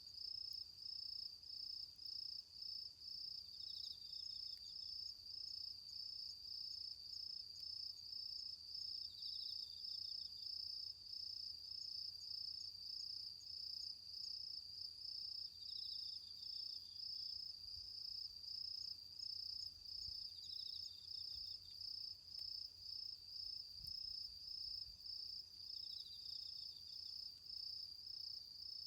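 Autumn crickets calling: one keeps up a continuous, evenly pulsing high trill while another gives a short, slightly lower trill about every five or six seconds.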